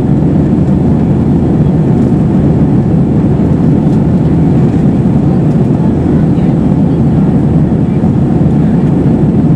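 Steady, loud cabin noise inside an Airbus A320-232 in flight: the drone of its IAE V2500 turbofan engines and the airflow over the fuselage, low-pitched and unchanging.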